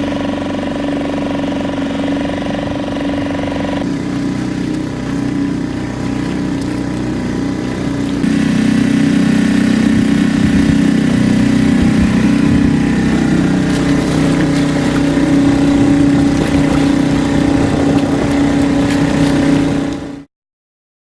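A boat engine running steadily with an even hum. It gets louder about eight seconds in and cuts off suddenly near the end.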